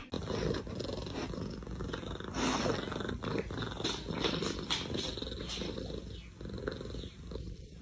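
Domestic cat purring steadily, with a few faint clicks scattered through.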